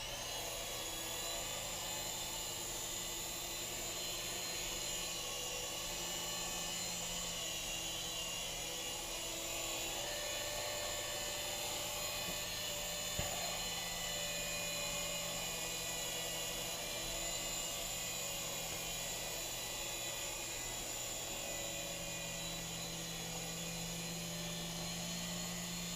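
Swann Micro Attack toy RC helicopter in flight: its small electric motors and rotors give a steady high whine, with one faint tick about halfway through.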